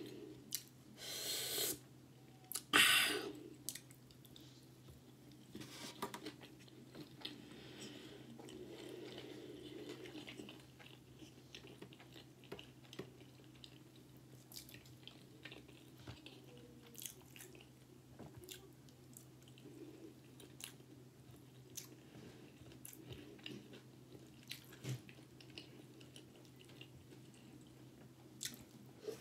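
A person chewing and biting food, with soft wet mouth clicks and a few louder bites in the first three seconds, while eating a spicy crab sushi roll and then homemade tortilla pizza.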